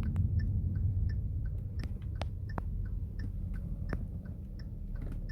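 Car turn-signal indicator ticking, about three clicks a second, over the low rumble of road noise inside the moving car, with a few sharper knocks.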